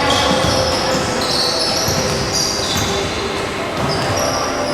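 Basketball game play: many short, high-pitched sneaker squeaks on a gym floor over the dull bouncing of a basketball.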